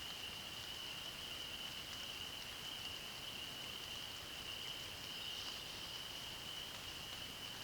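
A steady, unbroken high-pitched trilling chorus of calling animals, over a soft even hiss.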